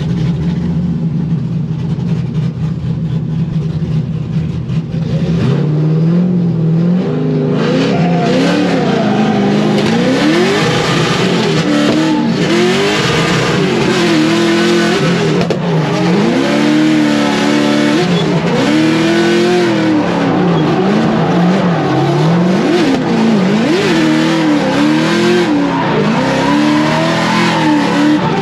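Corvette drift car's V8 running steadily, then from about seven seconds in revving hard up and down again and again while drifting, with tyre noise over it.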